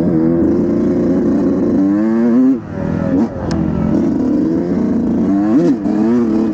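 Dirt bike engine being ridden hard, its pitch climbing and falling with the throttle, and two brief dips near the middle where the throttle is let off.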